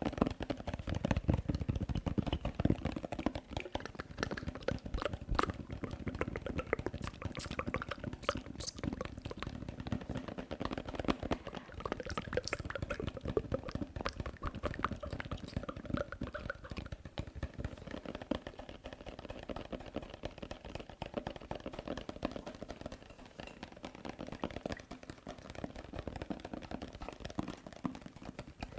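ASMR mouth sounds and tapping: a dense, irregular stream of small clicks and pops throughout.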